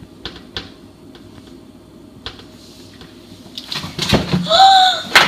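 A few light clicks and knocks over low room noise, then near the end a loud, high-pitched vocal cry from one of the actors.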